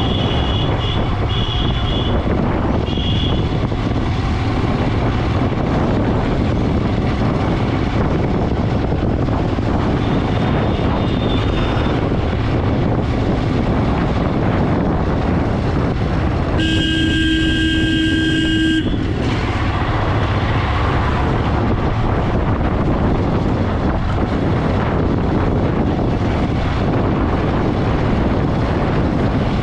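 Steady rush of wind and road noise with a motorcycle running along under it. There are three short horn beeps in the first few seconds, and about halfway through a vehicle horn sounds steadily for about two seconds.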